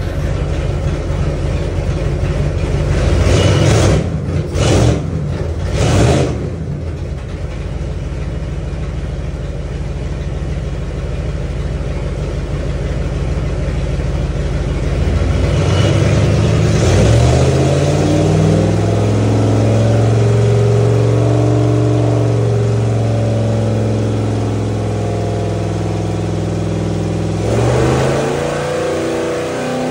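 Ford FE 390 V8 with iron heads and a hydraulic roller cam running on an engine dyno. It idles with three quick throttle blips early on, then about fifteen seconds in it is brought up in speed, held steady for about ten seconds, and drops back near the end.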